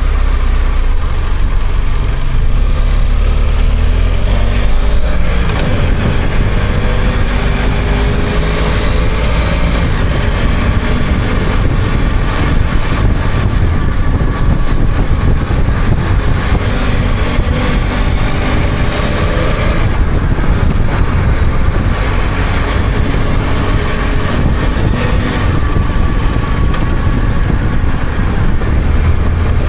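BMW F800GS parallel-twin motorcycle engine running under a rider, low and steady at first and near the end, its note climbing in pitch through the middle as the bike accelerates, over a constant rush of road and wind noise.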